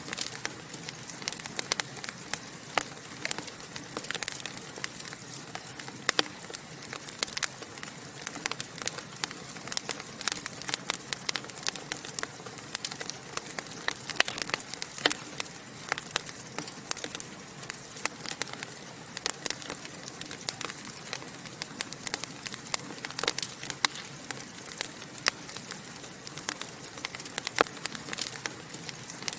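Wood fire in a fireplace crackling and popping: many sharp, irregular snaps, several a second, over a soft steady hiss.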